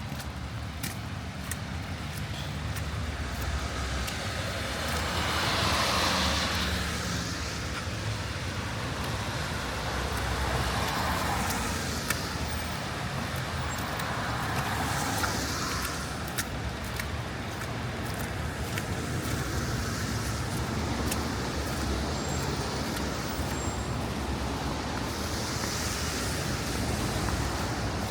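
Road traffic on a wet street: cars passing one after another over a steady low rumble, each a swell of tyre hiss that rises and fades. The loudest pass is about six seconds in, with others near eleven, fifteen and twenty-six seconds.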